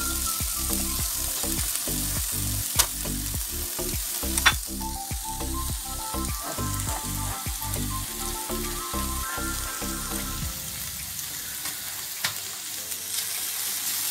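Chopped bell peppers frying in olive oil in a paella pan, sizzling steadily, with two sharp utensil knocks against the pan about three and four and a half seconds in. A low rhythmic background beat runs under the sizzle and stops about ten seconds in.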